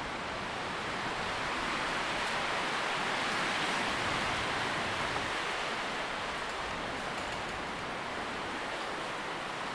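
Wind blowing through tree leaves: a steady rustling hiss that swells for a few seconds and then eases off.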